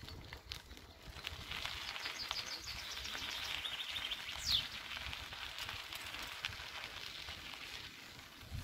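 Small birds singing in the trees: a rapid run of high chirps and one sharp falling whistle about halfway, over a low rumble.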